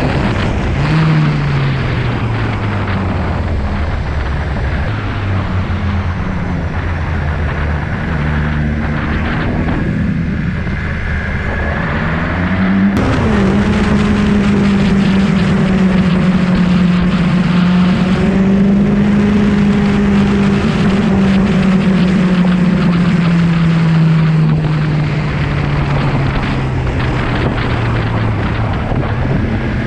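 Sport motorcycle engine running at riding speed, its pitch slowly rising and falling. About halfway through it cuts to a louder, steadier, higher note that eases slowly down near the end.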